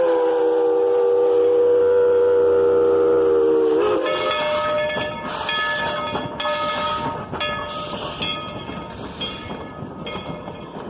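Narrow-gauge steam locomotive's chime whistle held in one long chord of several notes, cutting off about four seconds in. The engine then chuffs steadily, about one exhaust beat a second.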